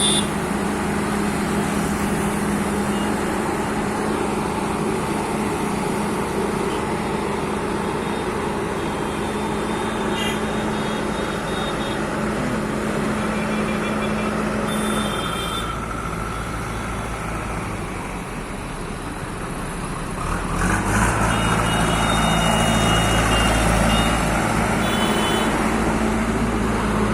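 Diesel engine of a JCB earthmover running steadily, then speeding up and getting louder about three quarters of the way through, as when it takes on load.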